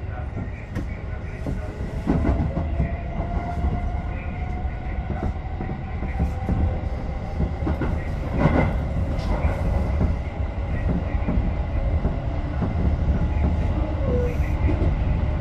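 Tobu 10030 series electric train running on the line, heard from the cab: a steady low rumble with wheels clicking over rail joints now and then, and a faint whine slowly rising in pitch.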